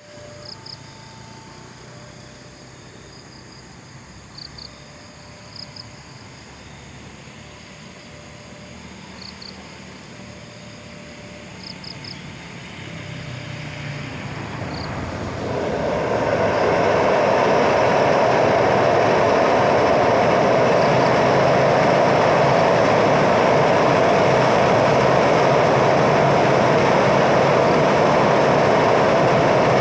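Train approaching and crossing a railway bridge. Faint at first, it swells over a few seconds about halfway through into a loud, steady rumble of the passing train.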